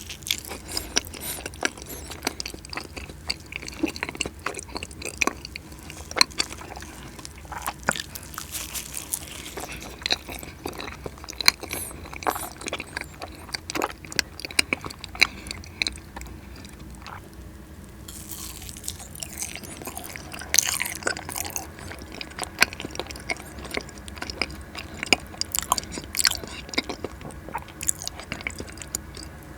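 Close-miked eating of cheesecake: steady chewing with many small, sharp mouth clicks and bites, easing off briefly past the middle.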